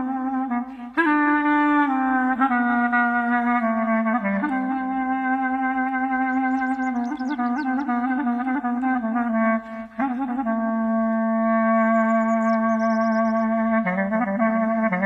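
Clarinet playing a slow melody of long held notes, with short breaks about a second in and near ten seconds. Faint bird chirps come twice beneath it.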